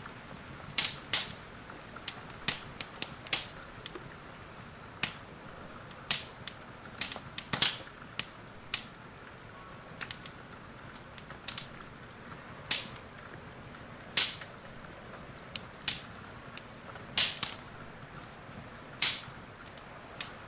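Wood fire in a fireplace crackling, with irregular sharp pops and snaps, a few louder ones standing out, over a steady hiss of rain.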